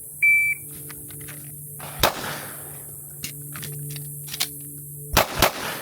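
A shot timer's high electronic beep, then one pistol shot about two seconds later and a quick pair of shots near the end, the last about 5.2 seconds after the beep. Faint clicks fall between the single shot and the pair.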